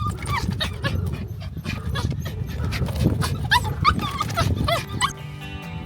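A dog whining and whimpering in a string of short, high-pitched, wavering cries. Background music with guitar comes in near the end.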